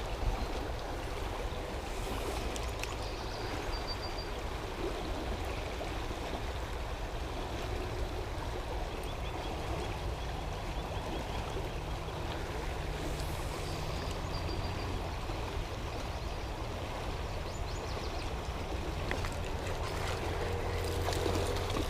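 River water flowing steadily around a wading angler, a constant rushing.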